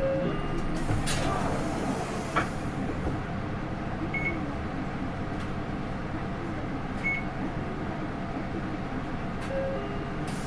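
Interior running sound of a Hino Rainbow II bus with an Isuzu 4HK1-TCH four-cylinder turbo diesel and Aisin automatic transmission: a steady engine and road drone while under way. A few short electronic beeps sound over it.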